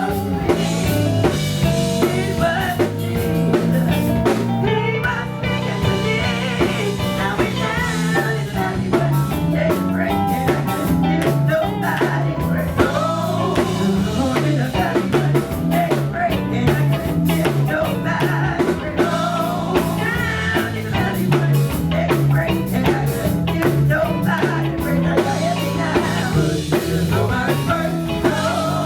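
Live band playing with drum kit, guitar and a stepping electric bass line under singing, at a steady loud level.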